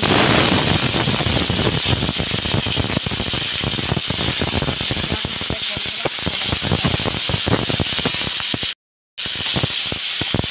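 Dried prawns frying in hot oil in a kadai, a loud sizzle with dense crackling and spitting that starts suddenly as they hit the oil. It cuts out for a moment about nine seconds in, then carries on.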